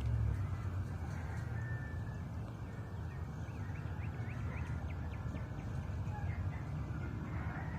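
A bird chirping, a quick run of about eight short high chirps in the middle, over a low steady outdoor rumble.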